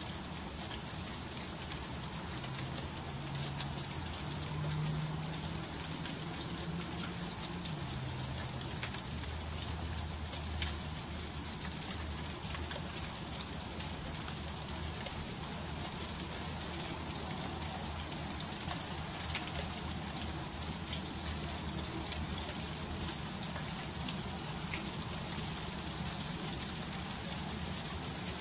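Freezing rain falling steadily: a dense, high hiss scattered with many small ticks of drops striking icy surfaces. A faint low hum comes and goes in the first half.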